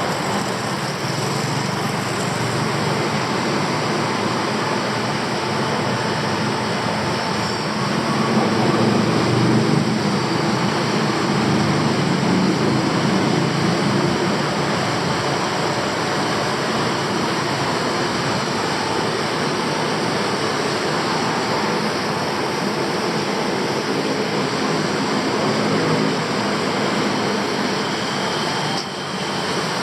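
Steady city street noise with passing traffic, swelling louder for a few seconds about a third of the way in.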